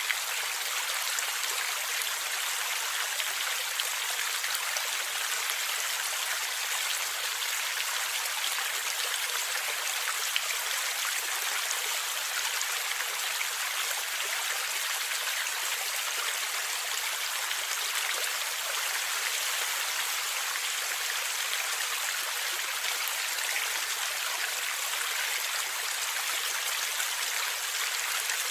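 Water of a forest stream running over rocks, a steady gurgling rush.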